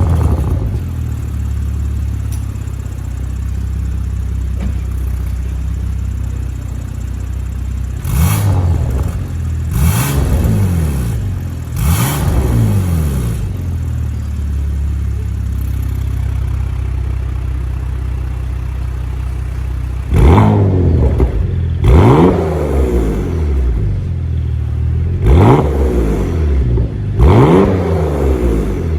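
Porsche Macan's 3.0-litre twin-turbo V6 through a custom cat-back valved exhaust, starting with a brief flare, then idling and being blipped: three quick revs a third of the way in, a stretch of idle, then four more quick revs near the end.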